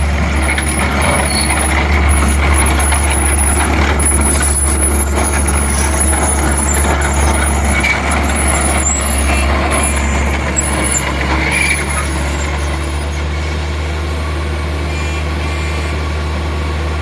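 Skid steer engine running with a steady low drone while the machine works crushed rock, with rattling and scraping until about three-quarters of the way through. A thin high tone comes and goes during that stretch, and after it the engine runs on more evenly and a little quieter.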